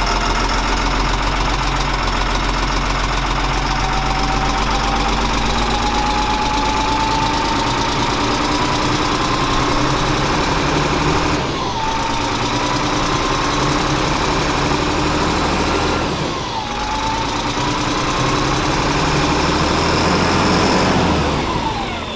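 Diesel engine of an FMTV military truck running after being got going again, a steady drone. Over it a whine climbs slowly in pitch and falls back abruptly about twelve and seventeen seconds in, and again near the end.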